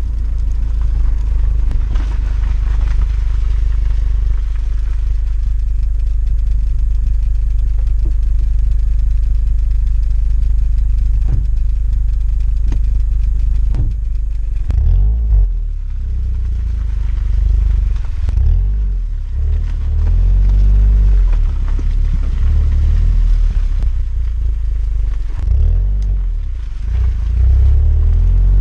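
VW Golf 6 GTI's 2.0 TSI turbocharged four-cylinder engine and exhaust while driving. It holds a steady low drone at first, then rises and falls in pitch several times from about halfway as the car accelerates and shifts through the gears.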